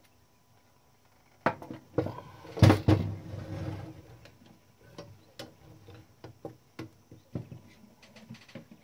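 Irregular clicks and knocks from hands working on a Klein Adler 2 typewriter, with a louder burst of clatter from about one and a half to four seconds in.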